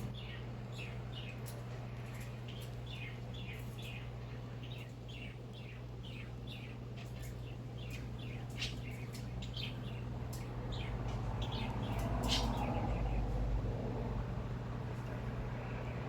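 Pet bird chirping over and over: short chirps that drop in pitch, about two a second, stopping about thirteen seconds in. A steady low hum runs underneath.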